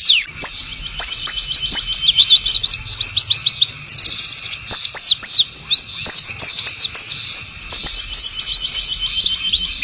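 White-eye (pleci) singing: a fast, continuous twitter of high, quick chirps and short sliding whistled notes, several a second.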